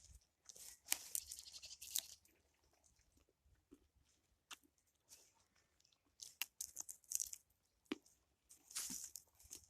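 Faint crunching footsteps, coming in irregular bursts of crackles with quiet pauses between.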